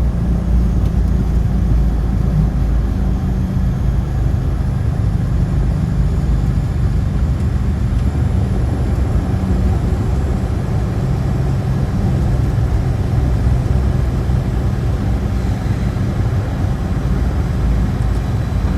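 ATR 72-600's Pratt & Whitney PW127 turboprop engines and propellers running after touchdown, a loud, steady low drone with a constant hum.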